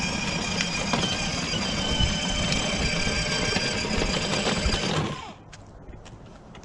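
Electric ride-on toy car driving: its small drive motors and gearbox whine with several thin high tones over a low rumble, then stop about five seconds in.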